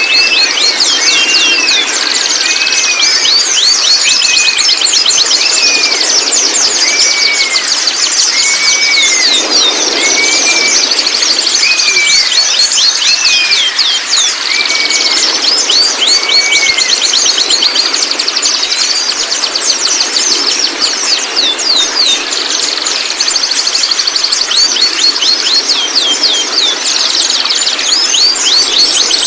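Young white-rumped shamas calling: quick, high downward chirps run throughout, with a repeated arched whistled call about once a second for the first half, over a steady high drone.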